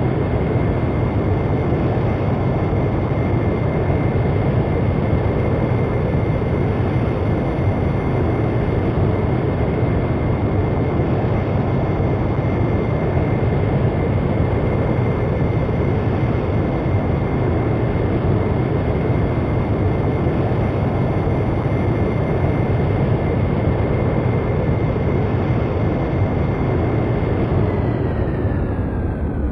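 Jet engines of a very large aircraft running steadily: a constant rush of noise with a high whine over it. Near the end the whine falls in pitch.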